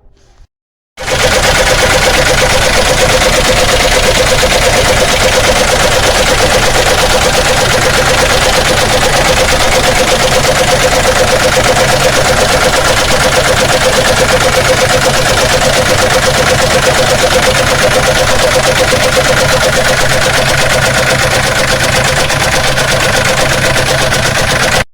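Chevrolet Omega four-cylinder engine running with a loud, fast, even knocking from inside the engine, which the mechanic takes for a loose connecting rod letting a piston strike the cylinder head. It starts abruptly about a second in.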